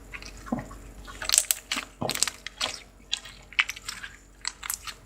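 Slime being squeezed and played with by hand, making a string of irregular wet pops and clicks.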